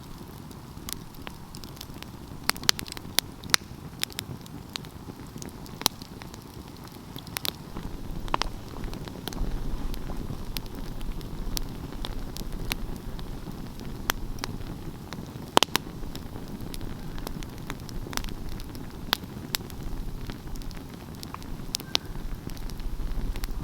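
Wood fire crackling, with frequent irregular sharp pops over a steady low rush of flames. One pop about two-thirds of the way through is louder than the rest.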